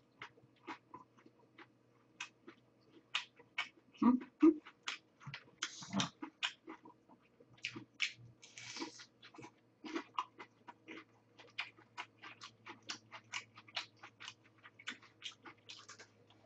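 Close-miked chewing and crunching of a fried crab-stick fritter: a steady run of short crisp crunches and wet mouth clicks, with a few louder bites about four and six seconds in. A faint steady hum runs underneath.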